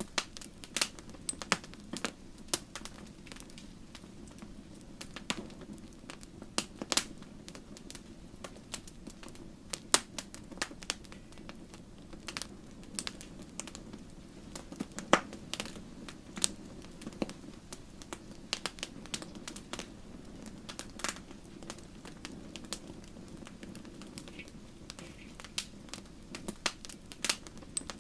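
Wood fire burning in a fireplace: logs crackling with irregular sharp pops and snaps over a steady low rush of the flames.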